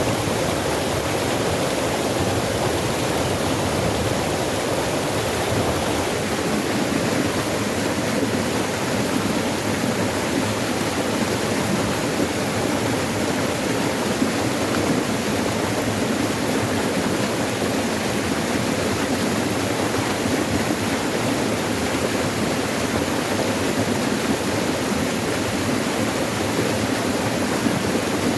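Forest stream rushing steadily over rocks, a constant even splashing with no pauses.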